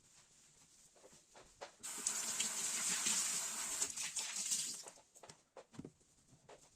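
Kitchen tap running for about three seconds, then shut off, with small clicks and knocks of handling around it.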